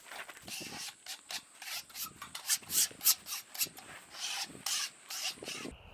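Scraping across the freshly sawn poplar surface: quick, uneven rasping strokes, about two a second.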